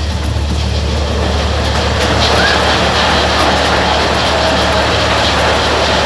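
Miniature railway train in motion, heard from a carriage behind the locomotive: a steady low drone with a rushing, rattling running noise that grows a little louder about two seconds in.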